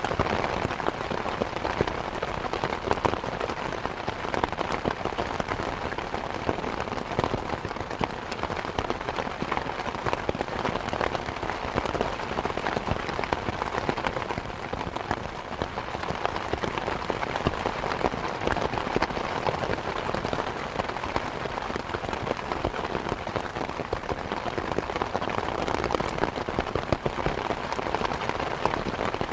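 Steady rain falling, with dense patter of individual drops hitting surfaces.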